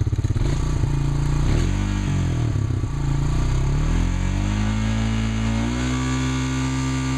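Chainsaw engine running and being revved up and down, then held steady at higher revs from about six seconds in.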